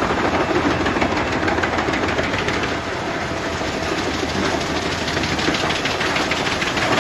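Heavy machinery running steadily with a fast, even clatter.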